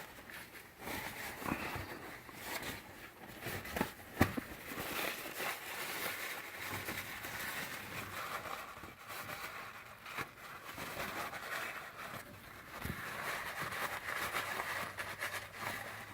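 Wiping the oil filter mounting face on the engine clean: an uneven rubbing noise that swells and fades, with scattered light clicks and one sharp knock about four seconds in.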